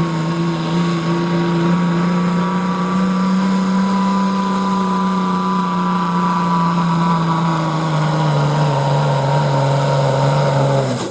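Pro stock semi truck's diesel engine running flat out under load as it drags the pulling sled, with a steady high whine over it. The engine pitch sags a little in the second half, then the sound cuts off abruptly at the end of the run. The truck could not hold the pull long enough and comes up short.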